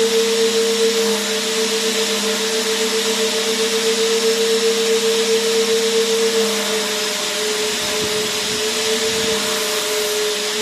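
Vacuum cleaner motor running continuously: a steady whine over a dense airflow hiss. Its pitch sags slightly about two-thirds of the way in.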